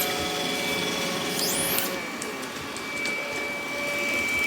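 Robot vacuum cleaner running: a steady high whine from its motor over a whirring rush of suction and brushes, the lower hum dropping away about two seconds in.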